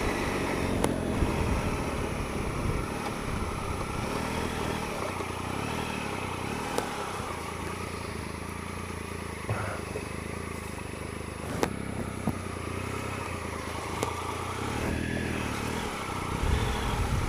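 Triumph Explorer 1215cc three-cylinder motorcycle engine running steadily at low speed on a rough track, with a few sharp knocks and clatter.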